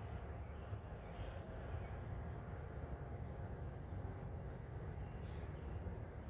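A small bird's high, rapid trill lasting about three seconds, starting about two and a half seconds in, over a steady low rumble of distant traffic.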